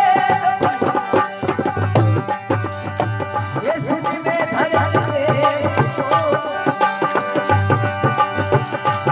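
Rajasthani folk devotional music: a fast, steady drum rhythm under a wavering melody line, with no clear words.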